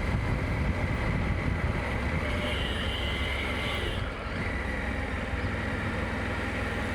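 Motorcycle running at a steady cruising speed, a continuous low engine and road rumble with wind noise over it and a faint high whine throughout.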